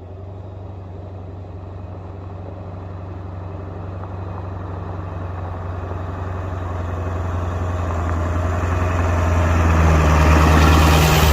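An engine running at a steady idle with a low hum, growing gradually louder throughout.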